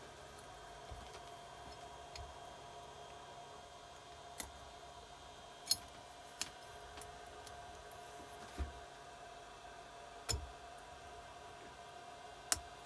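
Scattered light metallic clicks and taps from engine parts and tools being handled, about six over several seconds, over a faint steady hum.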